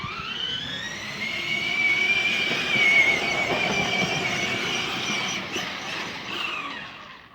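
Electric drive motor and gearbox of a child's battery-powered ride-on toy jeep whining as it spins up, runs at steady speed, then winds down near the end.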